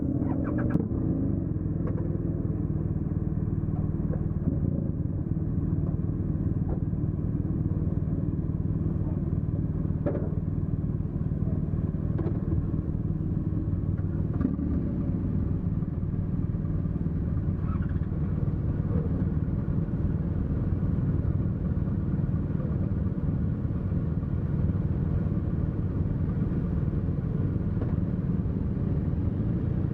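A car engine running steadily at low speed, a constant low drone, with a few faint knocks along the way.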